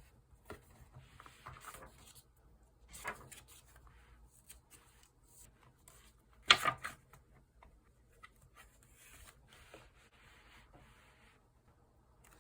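Paper and stickers being handled and rubbed on a desk, in soft rustling patches, with a few light taps and one sharper tap about six and a half seconds in.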